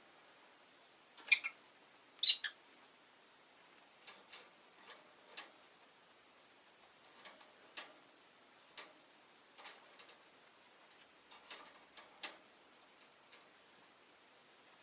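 Peach-faced lovebird giving two short, sharp chirps about a second apart, followed by scattered faint clicks and taps at irregular intervals.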